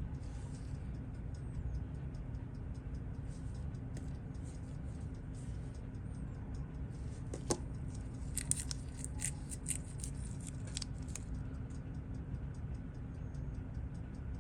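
Small sharp clicks of watchmaker's tools on the parts of a watch movement, clustered between about 7.5 and 11 seconds in. Under them run a steady low hum and a faint regular ticking.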